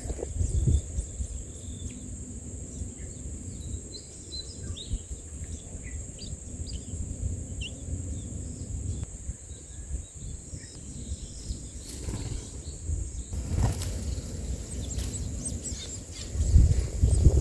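Short, faint bird chirps scattered over the first half, over a steady high-pitched hiss and a low rumble.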